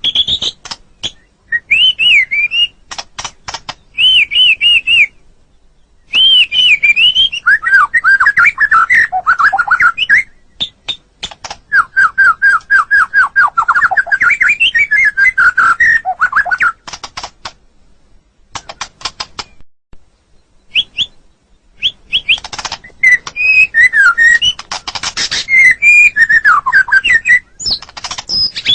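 White-rumped shama singing: loud, varied whistled phrases that warble up and down, mixed with rapid dry clicking rattles, broken by short pauses.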